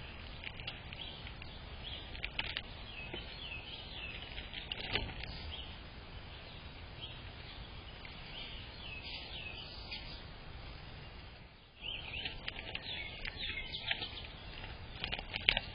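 Small birds chirping and twittering in many short, quick calls over a steady low background rumble, with scattered sharp clicks and taps. The sound dips briefly about twelve seconds in, then the chirping comes back busier.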